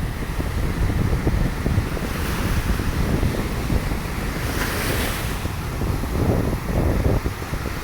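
Rough surf breaking on a sandy beach under red-flag conditions, with a hissing wash of a breaking wave about five seconds in. Wind buffets the microphone with a low rumble throughout.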